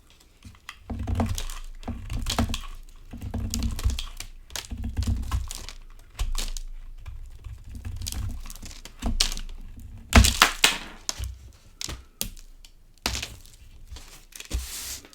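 Dry soap crunching and cracking as it is cut: quick clusters of crisp clicks with short pauses between them, and a sharper, louder crack about ten seconds in.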